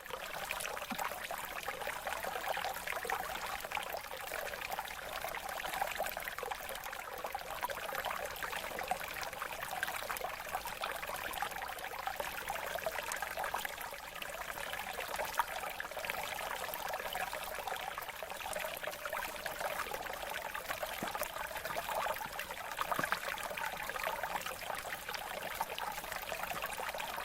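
Running water trickling and splashing steadily, like a small stream over stones.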